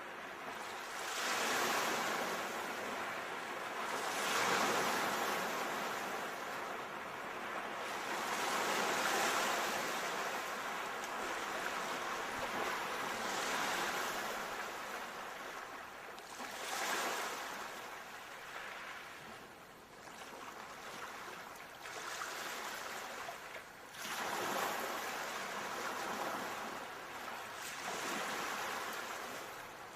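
Ocean surf breaking and washing on a shore, swelling and ebbing every few seconds.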